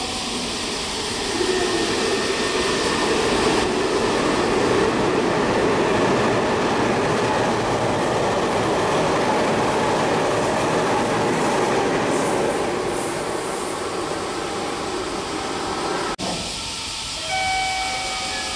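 Meitetsu electric train passing through a station at speed without stopping: a loud, steady rush of wheels on rail that builds about a second and a half in, with a high hiss at its height. Near the end it cuts off suddenly, and a few steady tones follow.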